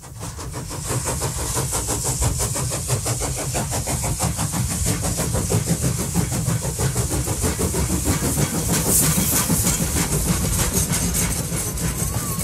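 A train running with a fast, steady clatter over a low rumble and a high hiss, fading in over the first second.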